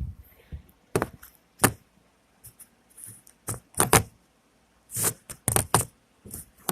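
A knife cutting through a raw apple: a dozen or so sharp crunches and knocks against the cutting surface at uneven intervals, some in quick pairs.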